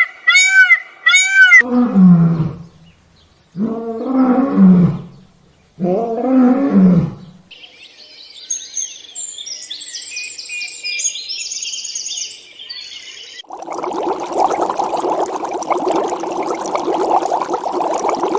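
A run of different animal calls: short high calls repeated about three times a second, then three low drawn-out calls, each falling in pitch, then high-pitched chirping, and finally a steady noisy rumble for the last few seconds.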